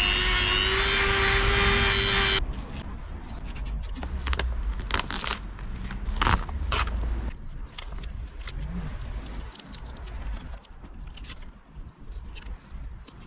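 An electric power tool runs with a steady whine and stops about two and a half seconds in. Then come scattered metallic clicks and scrapes of parts and tools being handled.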